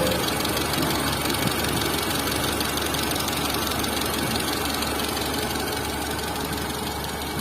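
Tata Zest's engine running at idle with a steady mechanical knocking noise from the top end, the camshaft noise fault the title puts it down to.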